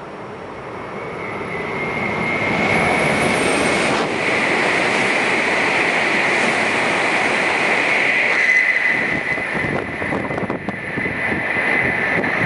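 Hokuriku Shinkansen Kagayaki (E7/W7 series) train passing through the station at 260 km/h without stopping. A rushing noise builds over the first two seconds, then stays loud for about ten seconds, with a steady high tone running through it.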